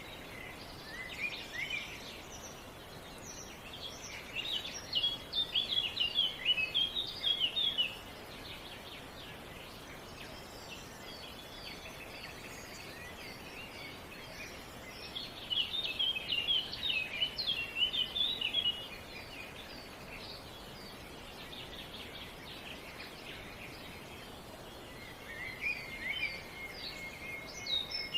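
A songbird singing in bursts of rapid chirping notes, three phrases a few seconds each spaced roughly ten seconds apart, over a steady outdoor background hiss.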